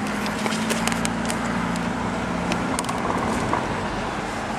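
Car engine running steadily at low speed, heard from inside the vehicle, with a few light clicks and rattles.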